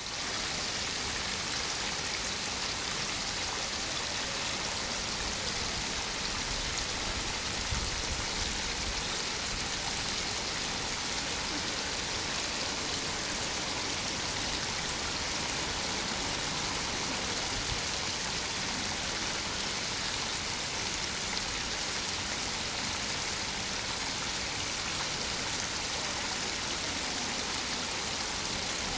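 Spring water pouring and splashing steadily into a pond, a constant hiss of flowing water with a brief low rumble about eight seconds in.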